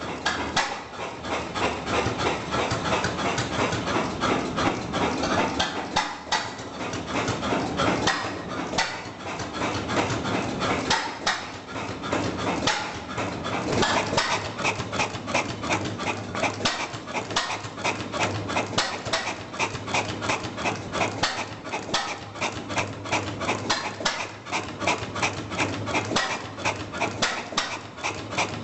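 Vintage stationary engine running, its exhaust and valve gear beating in a rapid, even knock of about four to five strokes a second.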